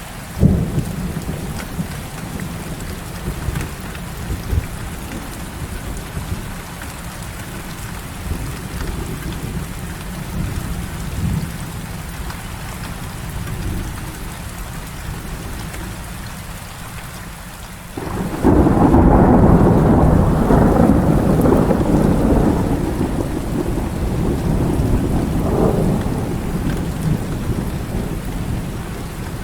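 Heavy rain falling steadily, with a sharp thunder crack about half a second in. About two-thirds of the way through, a long, loud roll of thunder begins suddenly and rumbles on, slowly fading toward the end.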